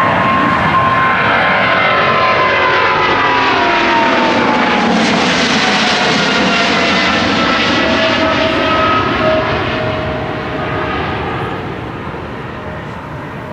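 Widebody jet airliner climbing out low overhead after takeoff: loud engine noise whose whine glides down in pitch as it passes, then fading over the last few seconds.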